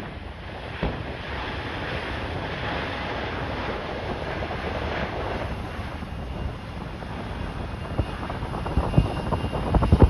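Strong wind buffeting the microphone over a steady rushing noise, with low gusty thumps growing near the end.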